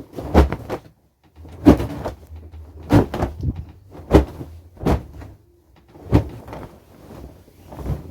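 A mwiko, a wooden cooking stick, jabbed repeatedly to tuck a bed sheet in around the mattress: about seven short knocks and scrapes, roughly one a second.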